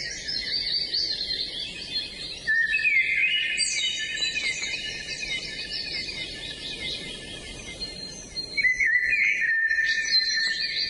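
Several birds singing at once, with overlapping chirps and rapid trills; louder song starts about two and a half seconds in and again near the end.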